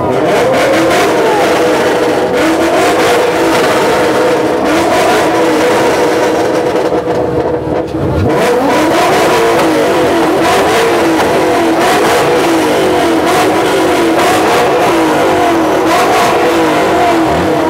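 Car engine revving over and over, its pitch rising and falling. About eight seconds in the revs drop sharply, then climb again.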